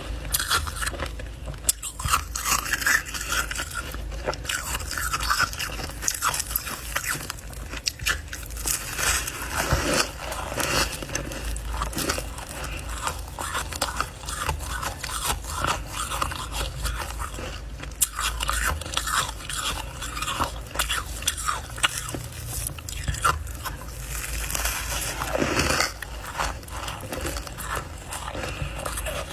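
Close-miked biting and chewing of crunchy freezer frost ice, a dense run of irregular crunches and crackles with some scraping.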